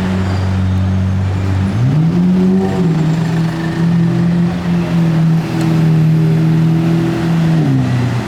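Lamborghini Murciélago LP670-4 SV's V12 running through an aftermarket Tubi exhaust. It starts at a steady low idle, rises smoothly in pitch about two seconds in, holds the higher engine speed for about five seconds, then drops back near the end.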